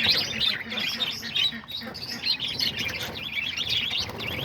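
A flock of budgerigars chattering and chirping without pause, many birds calling at once.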